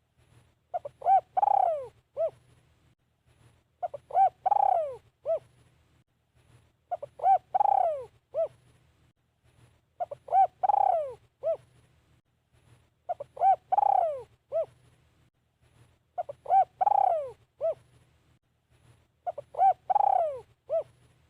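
A spotted dove serving as a decoy gives its cooing phrase over and over, about every three seconds, seven times in all. Each phrase is a few short coos and one longer, falling coo.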